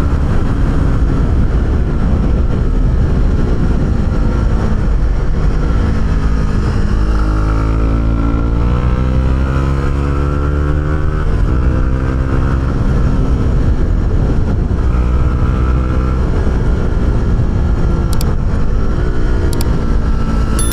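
A Honda CB125R's single-cylinder 125 cc four-stroke engine running through an Arrow aftermarket exhaust, heard from the rider's seat while riding. Its pitch climbs and falls several times as the bike accelerates through the gears and eases off.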